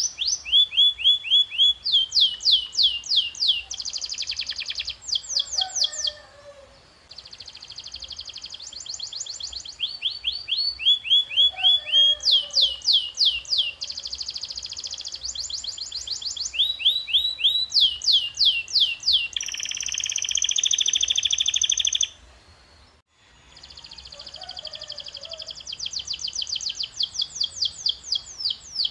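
Canary singing: fast trills of rapidly repeated high, downward-sweeping notes, changing to a new phrase every second or two, with a buzzier rolling trill about two-thirds through. The song briefly drops away twice, about six seconds in and again after the buzzy trill.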